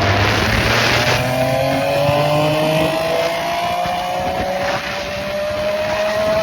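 Yamaha Tracer 900 GT's three-cylinder engine pulling under way, its note climbing slowly in pitch, with a brief dip about five seconds in before it climbs again. There is a rush of noise in the first second.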